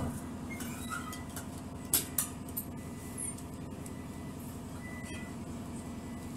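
Steady rumble and hum of a moving electric passenger train heard from inside the carriage, with a few sharp clicks about two seconds in.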